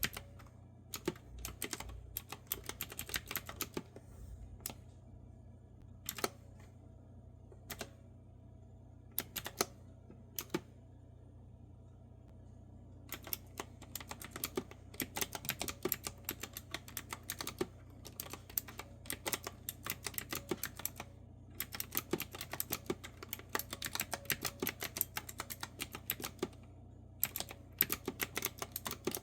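Clicky retro typewriter-style keyboard with round keycaps being typed on. A short run of keystrokes is followed by several seconds of only scattered single clicks, then fast steady typing from a little before halfway, broken by a brief pause near the end. A faint steady low hum runs underneath.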